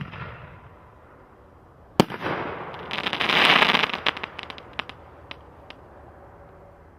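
60-gram reloadable canister shells (Smoke and Mirrors) being fired. A sharp launch bang is followed about two seconds later by the shell's loud break. A dense crackling comes next and thins out into scattered pops.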